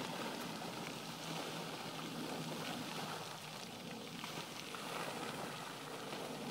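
Steady, faint outdoor hiss with a few faint ticks; no distinct event stands out.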